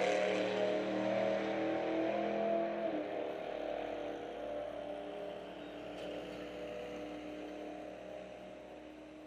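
Drag car engine fading away into the distance, growing steadily quieter, with its pitch dropping a little about three seconds in and then holding steady.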